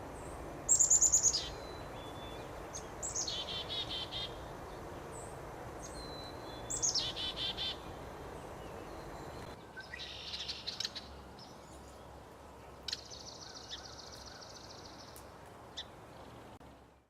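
Songbirds singing over a steady background hiss: three loud phrases of quick notes falling in pitch in the first eight seconds, then shorter calls and a steady high trill lasting about two seconds.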